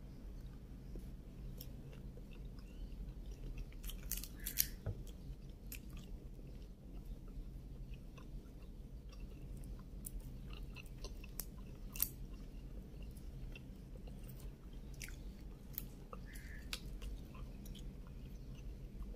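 Close-up eating sounds of a person chewing shrimp: wet chewing and mouth smacks with small sharp clicks now and then, the two clearest about four and a half seconds in and at twelve seconds. A steady low hum runs underneath.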